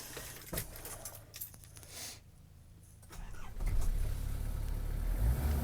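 Keys jangling and a few clicks, then about three seconds in the Nissan TD27 2.7-litre four-cylinder diesel starts and settles into a steady low idle. The engine is already warm, so this is not a cold start.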